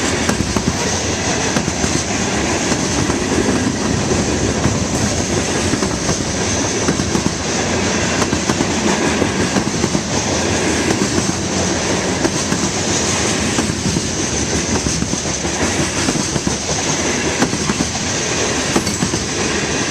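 Freight cars, loaded four-bay hoppers among them, rolling steadily past at trackside: a continuous rumble and clatter of steel wheels on rail, with a thin high-pitched wheel squeal running over it.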